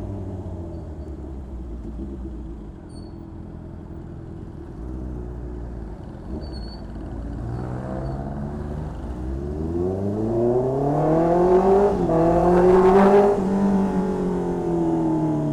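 2020 Honda CB650R's inline-four engine through an aftermarket exhaust under way: the revs drop and hold low for several seconds. Then the engine pitch climbs steadily under throttle for about five seconds to its loudest, and falls away again as the throttle closes near the end.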